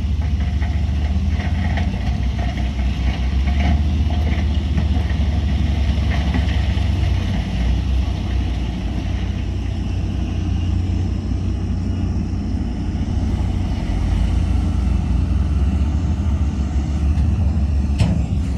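Heavy diesel earthmoving machinery running steadily with a deep rumble, with a sharp knock near the end.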